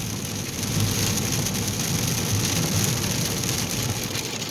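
Rain falling on a moving car, with a low rumble of the car on the wet road underneath that swells about a second in.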